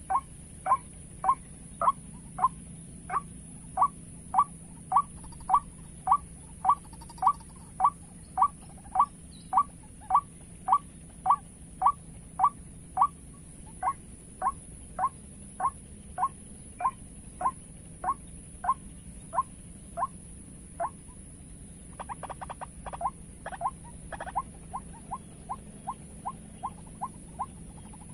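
White-breasted waterhen calling, a short 'ruak' note repeated steadily about once every 0.6 seconds. About 22 seconds in the calls break into a quick jumbled burst, then carry on faster and softer.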